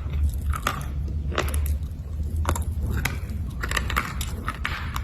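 Black slate being bitten and chewed: a run of sharp, irregular crunches and cracks, with a low steady hum underneath.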